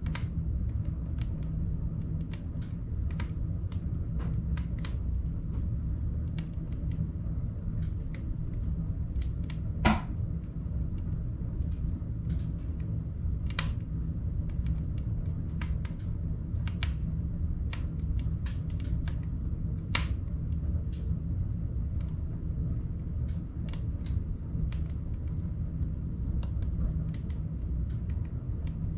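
Wood crackling as it burns in a wood stove: irregular sharp pops and snaps, a few louder ones, over a steady low rumble.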